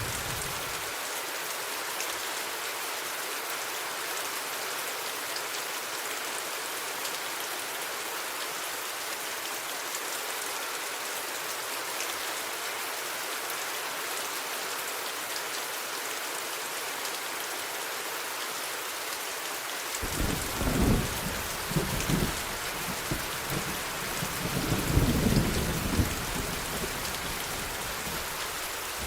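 Steady rain falling, joined about two-thirds of the way in by a roll of thunder that rumbles low in several swells over about six seconds, then dies back to rain alone.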